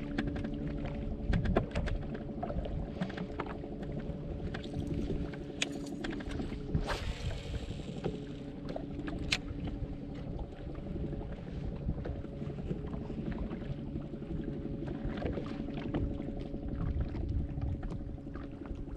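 Electric trolling motor humming steadily under wind rumble on the microphone, with scattered small clicks and a short hiss about seven seconds in.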